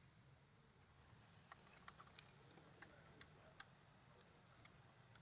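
Near silence with a faint low hum and a scattering of faint, irregular clicks, about eight of them, mostly after the first second and a half.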